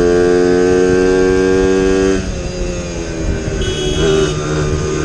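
Motorcycle engine running hard at high, steady revs, its drone slowly climbing. About two seconds in the drone drops away abruptly, leaving a rougher, lower engine and road noise with a brief high thin tone near the end.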